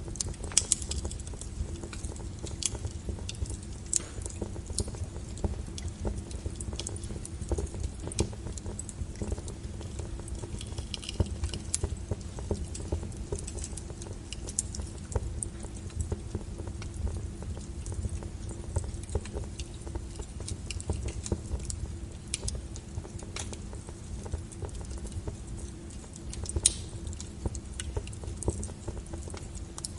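Wood logs burning in a fireplace: irregular sharp crackles and pops over a low, steady rumble of the fire.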